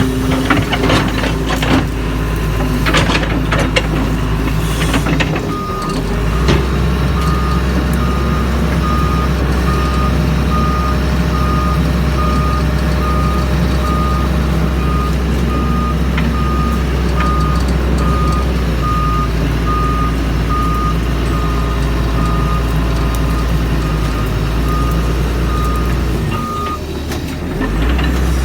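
Doosan DX140 excavator's diesel engine running steadily, with its travel alarm beeping at an even pace for most of the stretch, the machine moving. A few knocks and clatter sound in the first seconds.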